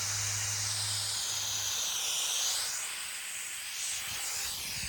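Water spray nozzle hissing out a fine mist, the hiss shifting in pitch about two seconds in as the spray moves. A low steady hum runs underneath for the first second and a half.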